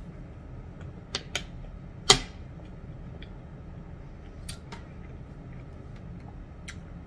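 Eating chicken pot pie with its crisp, flaky crust: a few sharp crunches and mouth clicks, the loudest just after two seconds in, over a low steady hum.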